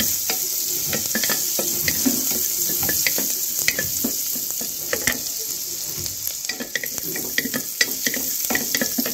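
Chopped garlic and ginger sizzling in butter in a pressure cooker, with a steady hiss. A wooden spatula stirs them, giving irregular clicks and scrapes against the pot.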